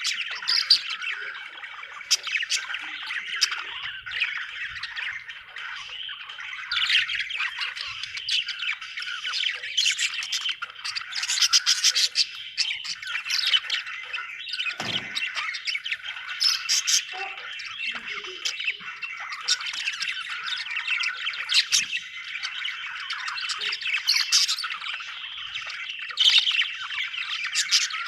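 A flock of budgerigars chirping and warbling together, a continuous chatter of overlapping chirps with sharper squawks now and then.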